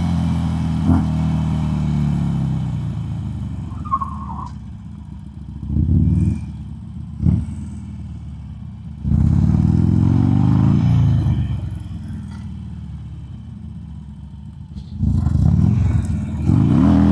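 Harley-Davidson Sportster 883 air-cooled V-twin engine revving and falling back to a lower idle: two short throttle blips about six and seven seconds in, a longer rev that rises and falls around the middle, and another rise in revs near the end.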